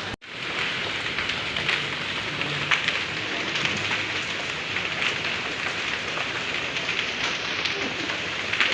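Hailstorm: a dense steady rush of rain and hail with many sharp ticks of individual hailstones striking hard surfaces. The sound drops out for a moment just at the start.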